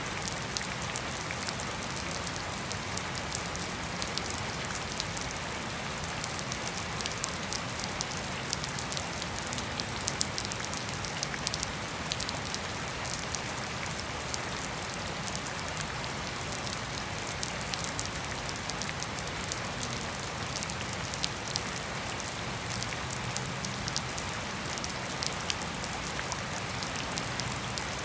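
Steady rain falling on grass and a wet paved path: an even hiss with many close drops ticking sharply over it. There is no thunder.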